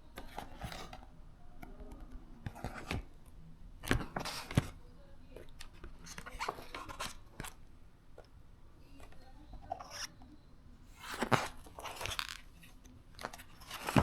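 Irregular rustling, crunching and clicking from something being handled at close range, in uneven bursts with a few sharper snaps.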